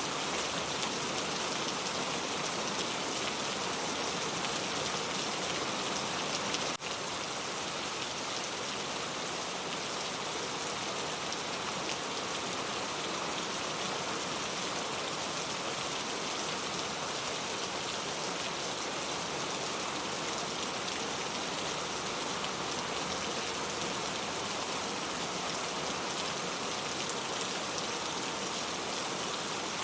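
Steady rain falling, an even, dense hiss of drops on surfaces, with a brief dip in level about seven seconds in.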